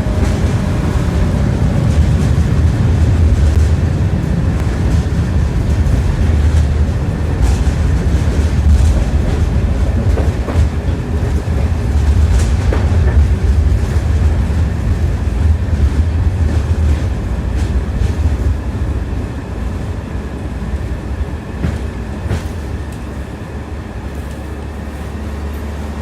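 Tram wheels clattering over the rail joints under a steady low rumble, heard from inside the car. The sound grows quieter over the last several seconds as the tram slows.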